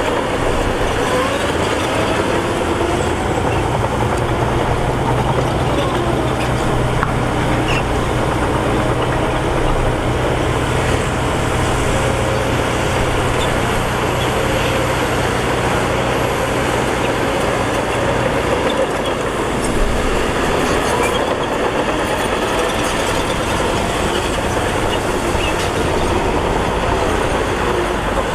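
Heavy diesel earthmoving machinery running steadily and loudly, with a low drone that drops away about two-thirds of the way through.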